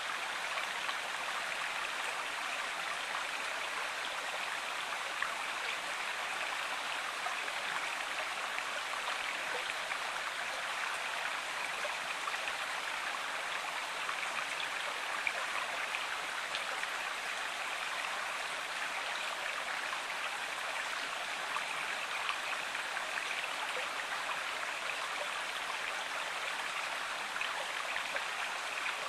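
Stream water flowing steadily, an even, unbroken running sound.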